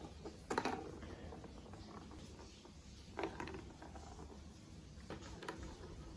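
Hard plastic marble run building pieces being handled and clicked together: a few short, sharp clicks and rattles, the loudest about half a second in, others near three and five seconds.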